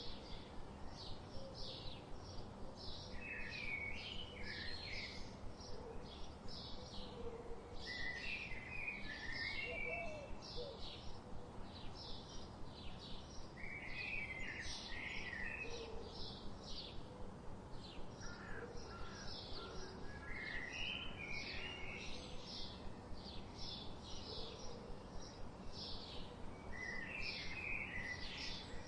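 Birds chirping: short high chirps repeat about twice a second throughout, with a longer warbling phrase roughly every five or six seconds, over a steady low background hiss.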